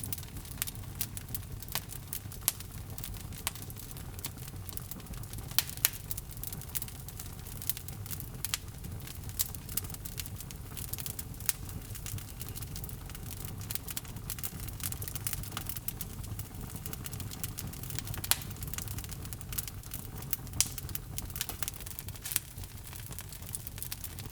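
Log fire burning in a fireplace: a steady low rumble of flame with irregular crackles and pops from the burning wood, a few louder snaps among them.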